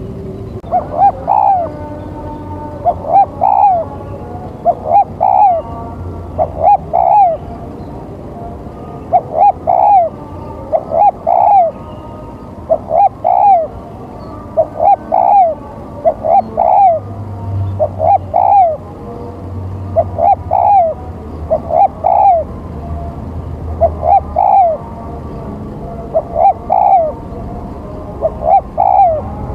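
Spotted dove (tekukur) decoy cooing: a short phrase of two or three low, arched coos, repeated about every two seconds as a lure call.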